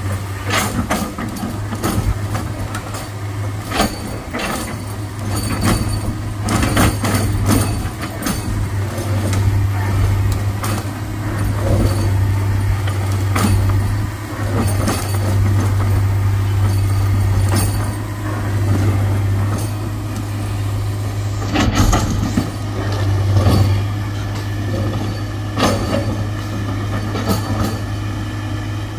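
Heavy diesel machinery running with a steady deep drone, broken by frequent sharp metallic clanks and knocks.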